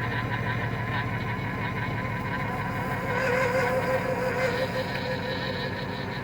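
2005 Cadillac Escalade engine running at idle, with a wavering whine from the power steering pump that grows louder about halfway through. The pump and hydro-boost system have just been topped up and still need bleeding.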